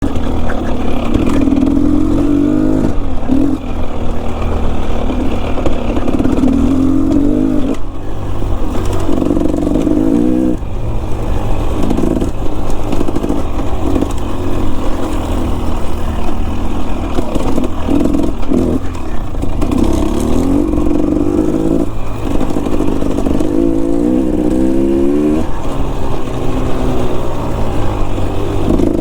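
Enduro dirt bike engine running under constantly changing throttle, its pitch repeatedly rising and falling back every second or two as the rider works it.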